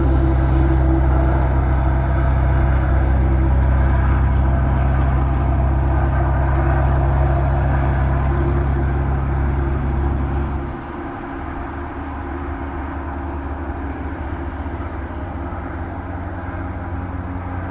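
Engine noise from an Airbus A320neo's CFM LEAP-1A jet engines: a loud, steady rumble with a low hum that drops off sharply about eleven seconds in, then runs on quieter.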